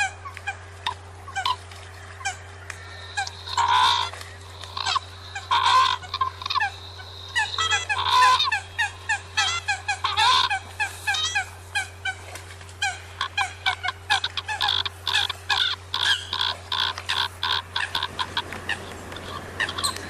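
Eurasian coots calling: a dense, rapid series of short honking calls, several a second, with louder bursts of overlapping calls a few seconds apart. A steady low hum runs beneath.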